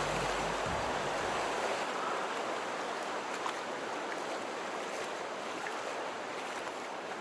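Mountain river water rushing over rocks, a steady hiss with no let-up.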